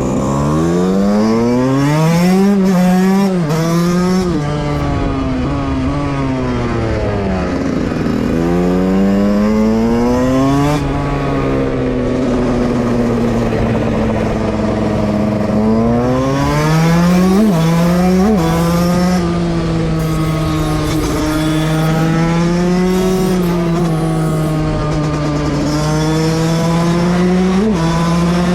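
Two-stroke motorcycle engine ridden hard: the revs climb and then drop sharply at each gear change several times in the first dozen seconds, then hold steady at high revs with small rises and dips.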